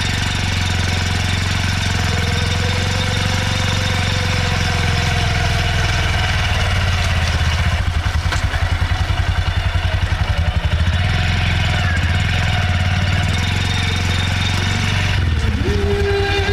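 Honda SP125's single-cylinder four-stroke engine idling, its stock exhaust note heard close up, steady with a stretch of even pulsing from about eight to eleven seconds in.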